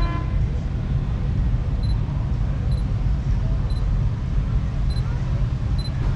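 Outdoor truck-show ambience: a steady, loud low rumble with traffic-like noise and some voices. A brief horn-like toot sounds right at the start, and a short high beep repeats about once a second from about two seconds in.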